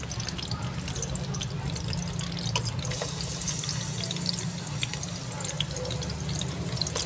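Pork offal sizzling in a hot wok, a steady hiss with small crackling pops. The sizzle turns brighter about three seconds in, as chopped garlic goes into the hot fat.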